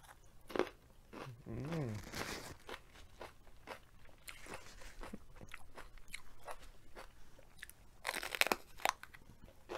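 Crunchy bites into a raw mini sweet pepper with close-up chewing: a sharp crunch about half a second in, and a louder crunchy bite about eight seconds in. A short hummed 'mm' comes about two seconds in.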